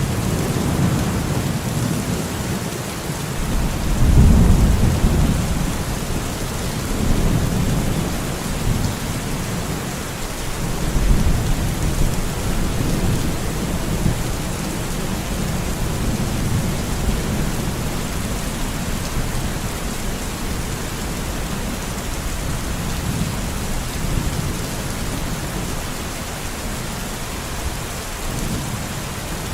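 Steady rain falling in a forest, with low rolling rumbles of thunder swelling about four seconds in and again around eleven seconds.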